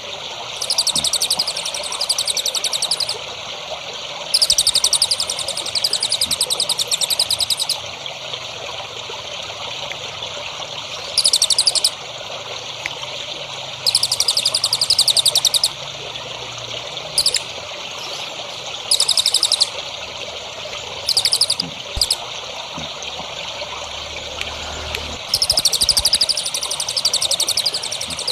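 A small songbird singing high, rapid trills in repeated bouts of one to three seconds, about nine times, over a steady trickle of running water.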